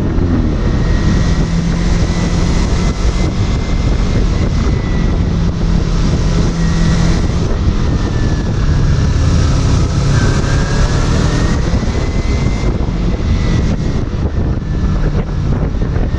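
Kawasaki Ninja 250's parallel-twin engine running under way, heard from the rider's position, with air rushing past. The engine note dips and rises a little in the middle as the throttle changes.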